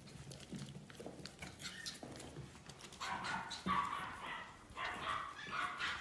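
Eight-week-old Biewer terrier puppies yipping and whining in a run of high calls starting about three seconds in, after a few seconds of small scattered clicks and knocks.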